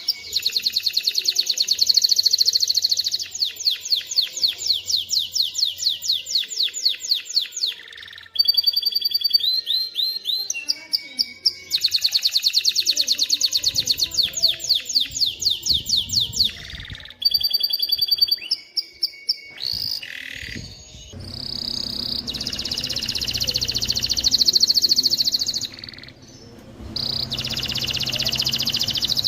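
Male canary singing: long rolling trills of fast repeated notes, with changes of phrase every few seconds and a harsher, scratchier passage past the middle.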